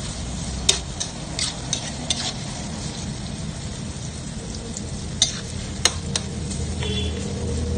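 Sliced onions, ginger and green chilies sizzling in hot oil in a metal wok, stirred with a metal ladle. The ladle scrapes and clicks against the pan several times.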